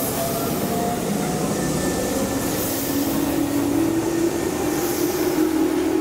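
Electric commuter train running away on the curve, its wheels rumbling on the rails. A motor whine slowly rises in pitch from about halfway through as it gathers speed.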